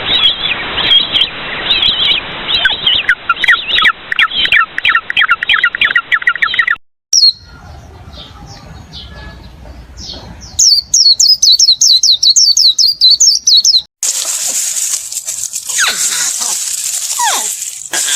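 Birds chirping and calling in several short, spliced clips that change abruptly. Quick runs of repeated chirps dominate, with a quieter stretch in the middle and a noisier, hissier clip near the end.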